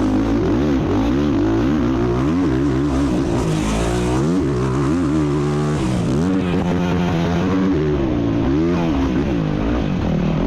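Off-road racing engine revving hard, its pitch rising and falling again and again with throttle and gear changes.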